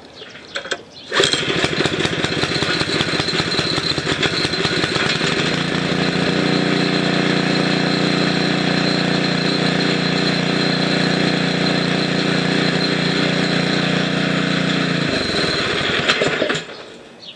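Briggs & Stratton 6.5 single-cylinder small engine catching on a homemade kick starter about a second in, then running at a steady speed before it is shut off and runs down near the end.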